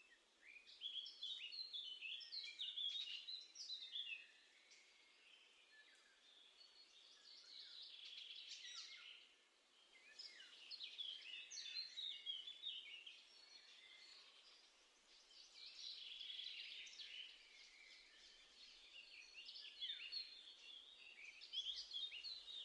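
A songbird singing: about five phrases of quick, high notes that jump up and down in pitch, each lasting two to four seconds, with short pauses between them.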